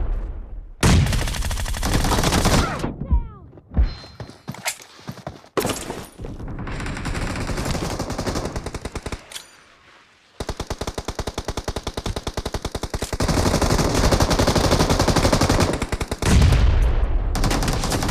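Video-game gunfire: a few separate loud shots in the first seconds, then, about ten seconds in, a long automatic burst of rapid shots lasting several seconds, with more heavy gunfire near the end.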